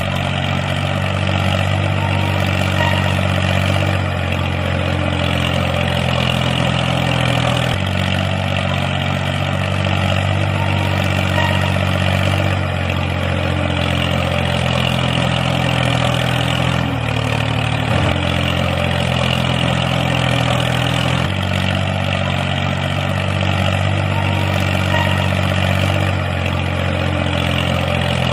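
A tractor engine running steadily at a low, even pitch, shifting slightly every few seconds.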